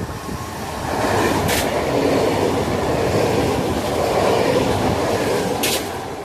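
A train passing close by through the station: the rail noise swells about a second in, holds steady, and eases off near the end. Two brief hissing swishes cut through it, one early and one near the end.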